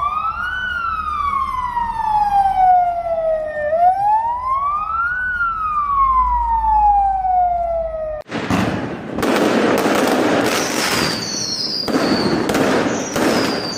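An emergency vehicle siren wailing in two slow cycles, each a quick rise and a long fall, which cuts off abruptly about eight seconds in. Dense crackling fireworks follow, with short high falling whistles.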